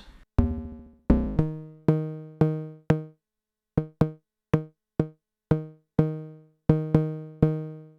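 Arturia DrumBrute Impact's analog FM drum voice, struck about fifteen times at an uneven pace. Each hit is a short pitched tone that dies away quickly. The first hits are buzzy with dense overtones and the later ones cleaner, as the FM amount is turned.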